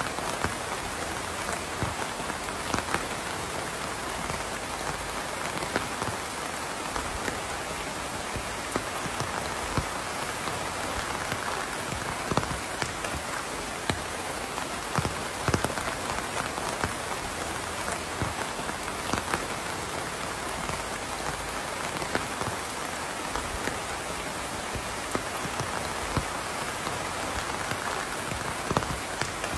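Steady rain falling on a surface: a dense, even hiss with individual drops ticking through it now and then.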